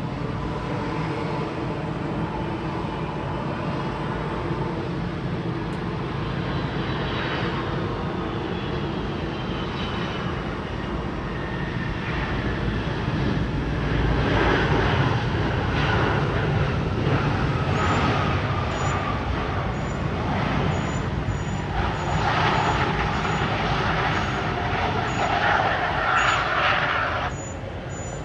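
Jet engines of a Boeing 757 airliner passing, a steady roar with a whine that falls in pitch as it goes by. It grows louder about halfway through and drops off abruptly near the end.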